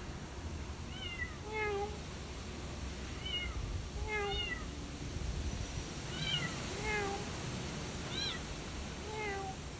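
Kitten mewing: short, high mews repeated every second or so.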